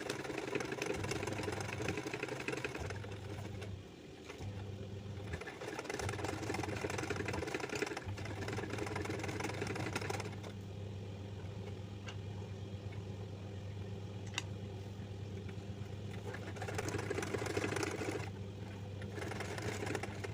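Electric sewing machine stitching. It runs in short bursts with several stops over the first eight seconds, then runs without a break.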